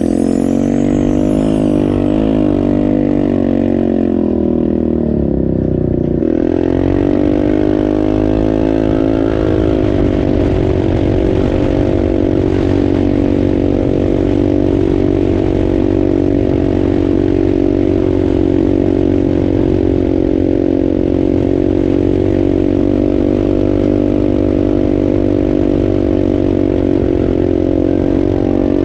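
Polaris RZR 570's single-cylinder engine with an aftermarket Big Gun exhaust running hard under throttle. The pitch dips about four to six seconds in, climbs back up, and then holds steady at high revs for the rest.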